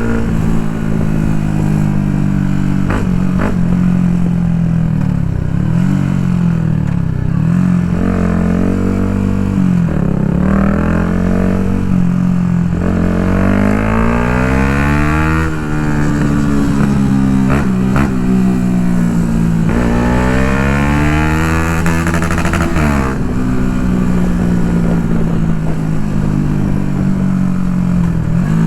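Yamaha MT-125's single-cylinder four-stroke engine through an Akrapovic full exhaust, the bike being ridden. The engine pitch climbs and falls again and again as it accelerates and shifts, with two long pulls, about midway and near the end, that each end in a sudden drop.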